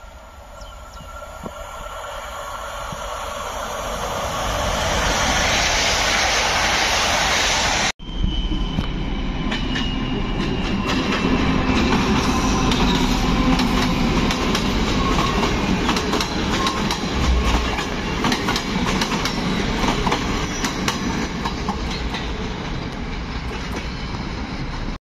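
A train approaching, growing steadily louder for about eight seconds. Then a ČD class 754 diesel-electric locomotive passes hauling passenger coaches, its engine rumbling and the wheels clicking over the rail joints.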